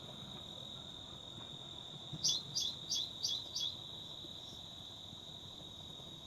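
A bird gives a quick series of about five short, high chirps a little after two seconds in, over a steady high-pitched insect drone.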